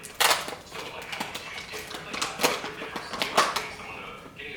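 A series of sharp clicks and clatters, four or five of them spread over a few seconds, over a low background.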